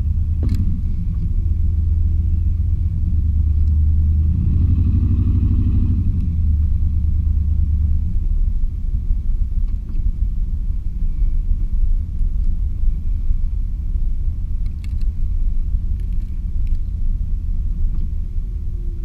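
Chevy 350 V8 pickup truck driving, heard from inside the cab: a steady low engine and road rumble. The engine note climbs briefly about four seconds in, and the rumble eases a little after about eight seconds.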